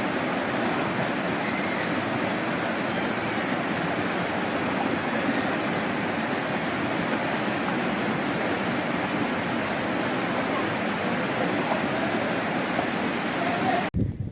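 Valley stream water rushing steadily, a continuous dense water noise that cuts off suddenly near the end.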